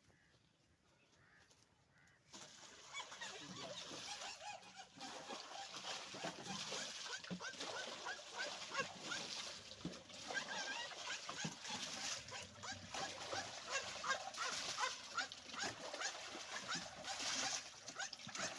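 A flock of birds calling at once, many short overlapping calls, starting about two seconds in.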